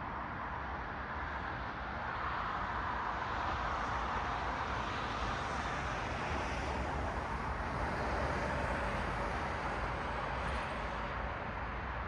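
Street traffic: a car passing on a city road, its tyre noise swelling from about two seconds in over a low rumble and easing off near the end.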